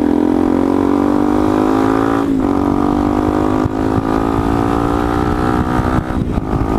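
Motorcycle engine with an R90 aftermarket exhaust pulling under acceleration, its pitch climbing; about two and a half seconds in it drops sharply at a gear change, then holds fairly steady and climbs gently again, with wind rumble on the microphone.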